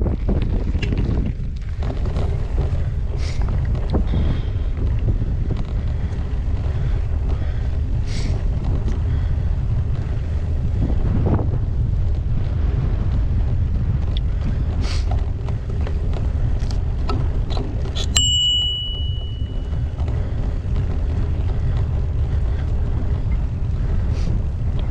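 Wind rumbling over the microphone of a bike-mounted action camera as a gravel bike rides over a rough off-road track, with scattered clicks and rattles from the bike. About three-quarters of the way through, a bicycle bell rings once and its ring dies away over a second or so.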